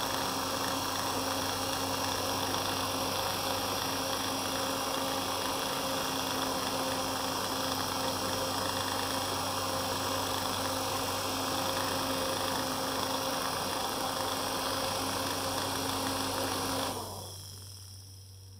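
Electric motor spinning a 3D-printed fan at full speed: a steady hum with rushing air. The motor stays at full speed even though its speed has been set to zero. A little before the end it cuts out and the sound fades away as the fan spins down.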